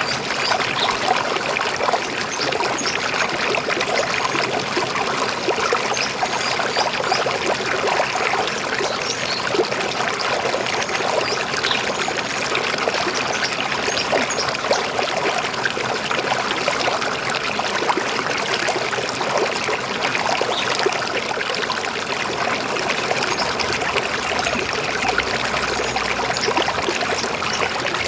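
A shallow river flowing steadily, with a continuous babbling, trickling rush of water.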